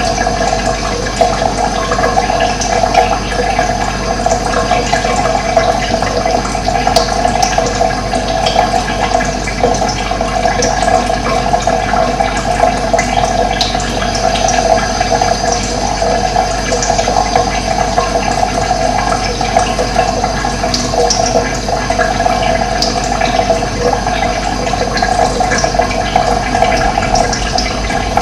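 Running water with a steady rushing, and short bird chirps scattered over it.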